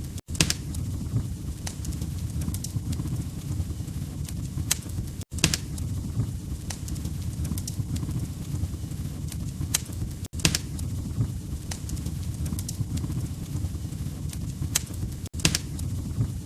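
Wood fire crackling in a fireplace: scattered sharp pops and snaps over a steady low rumble of flames. The sound cuts out briefly about every five seconds.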